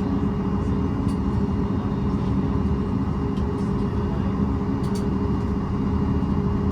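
Steady cabin noise inside a Boeing 737 MAX on the ground after landing: engine and air-system rumble with a low hum, and a few faint clicks.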